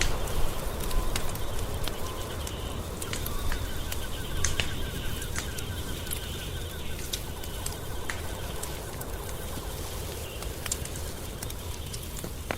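Wood fire crackling in a fireplace, with sharp pops scattered through over a low steady rumble. A faint, rapid pulsing trill comes and goes in the background.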